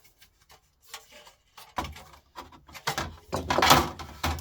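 Handling noise from a desktop power supply's circuit board and parts being worked on a bench: scattered clicks and light knocks, then denser scraping and rubbing, loudest about three and a half seconds in.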